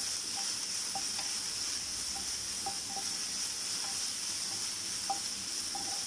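Crushed garlic and shallots sizzling steadily in coconut oil in a nonstick frying pan, stirred with a wooden spatula, with faint scattered clicks. The onions are frying towards a light golden brown.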